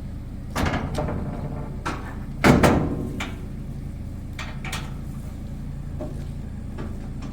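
An engine running steadily at idle, with a series of knocks and clanks over it, the loudest about two and a half seconds in.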